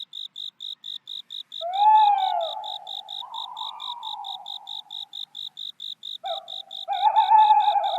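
Insect chirping, like crickets, in an even high pulse of about five chirps a second, with two long, wavering howls laid over it: the first starts about one and a half seconds in with a rise and fall in pitch and holds for some four seconds; the second begins about six seconds in.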